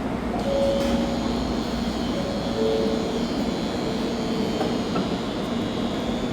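Shinkansen bullet train moving at the platform: a steady rush of running noise with a few held whining tones from its traction motors.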